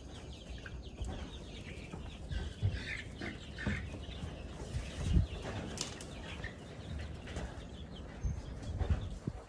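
Month-old chicks flapping their wings and scrambling while being caught, with short peeps and irregular bumps, the loudest bump about five seconds in.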